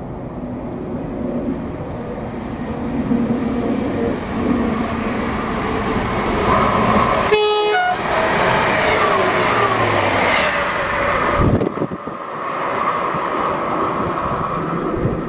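GWR Class 158 diesel multiple unit approaching and running past. It gives a short horn blast about halfway through, then its rumble falls away.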